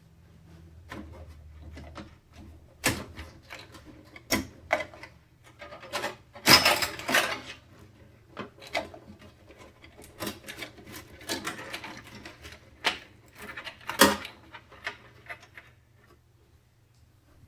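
Hands handling computer parts and tools: a string of sharp clicks, taps and knocks, with a longer rustle about six and a half seconds in and a loud click near the end, over a faint low hum.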